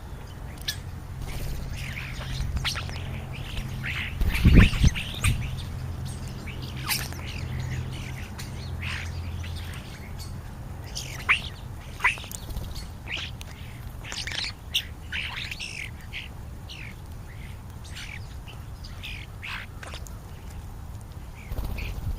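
A flock of European starlings calling at a feeder: a steady scatter of short squawks, chirps and falling whistles, over a low steady rumble. A dull thump sounds about four and a half seconds in.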